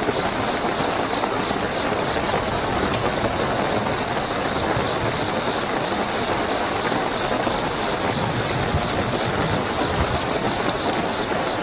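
Steady heavy rainfall, an even hiss and patter with no breaks, with crickets chirping as one continuous high trill on top.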